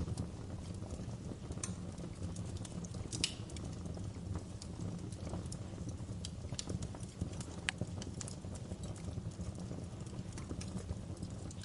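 A fire burning in a fireplace: a steady low rumble of flames with frequent irregular crackles and pops, a few of them sharper than the rest.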